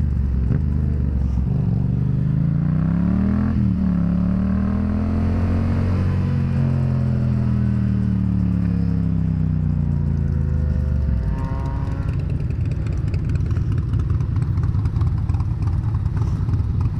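Yamaha FZ-07's parallel-twin engine under way, its pitch climbing and dropping back twice as it runs up through the revs. From about twelve seconds in, the engine note fades and wind and road noise take over.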